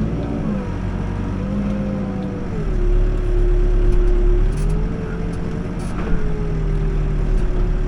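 New Holland B95 backhoe loader's diesel engine running under hydraulic load while lifting a heavy concrete slab. Its pitch drops for a couple of seconds as the load comes on, then climbs back, with a single sharp click about six seconds in.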